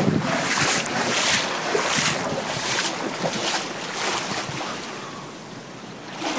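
Hurricane wind gusting against the phone's microphone, over the rush of floodwater pouring off a yard into the street. The gusts come in repeated surges and ease off near the end.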